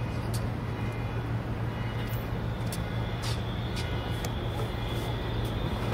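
Steady low rumble of a passenger train approaching in the distance, with scattered faint clicks.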